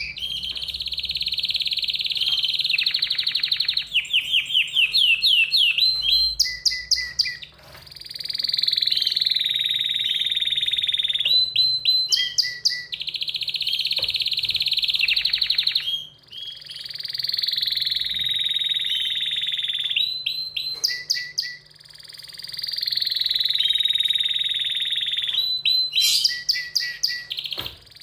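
Domestic canary singing excitedly in long, high rolling trills alternating with runs of quick separate notes, with a short break every several seconds.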